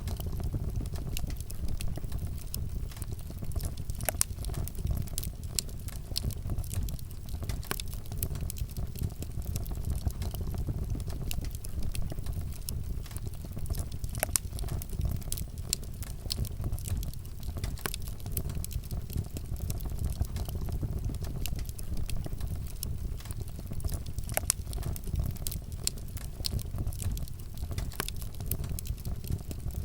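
Wood campfire burning, with frequent irregular crackles and pops over a steady low rumble.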